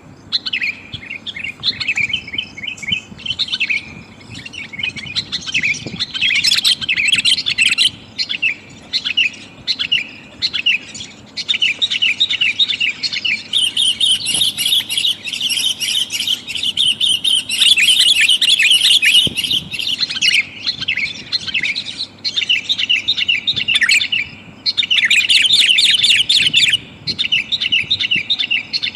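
Sooty-headed bulbul (kutilang) calling in rapid, dense runs of chattering chirps with a few short breaks. The recording is billed as a female calling to a male and is used as a lure to draw wild bulbuls down.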